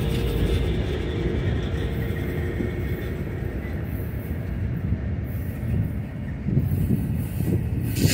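Double-stack intermodal well cars rolling slowly past, a steady low rumble of steel wheels on rail with a few uneven knocks near the end. A diesel locomotive's engine drone fades out in the first second or two as the last unit goes by.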